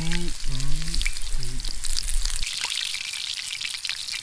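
Small breaded trout frying in hot oil: a steady sizzle full of quick pops and crackles.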